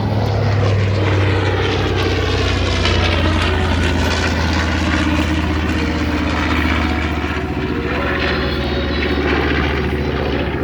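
B-25 Mitchell bomber Panchito passing low over the crowd, its twin Wright R-2600 radial piston engines and propellers running loud and steady. The pitch bends as it goes by.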